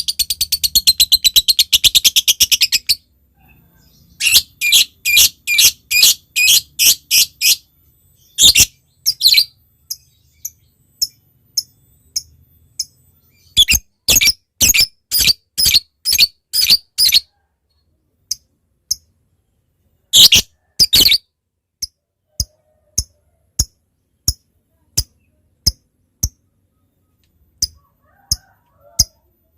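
Lovebird calling: a fast, continuous chattering trill (ngekek) for about the first three seconds, then runs of short, sharp 'tik' notes (ngetik) at about two a second, broken by pauses and thinning to single ticks near the end.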